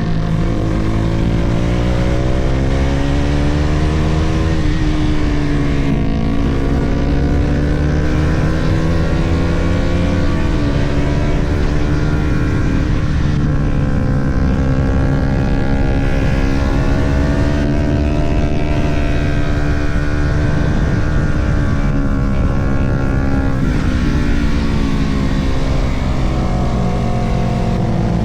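Sport motorcycle engine at riding speed, its pitch climbing and dropping again and again as the rider works the throttle and gears.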